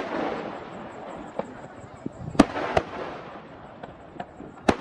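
Aerial fireworks shells bursting: several sharp bangs, the loudest about halfway through, with smaller pops and a fading crackle between them.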